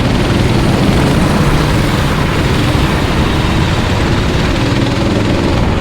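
Racing kart engines running on track, a steady, loud engine noise with no clear change.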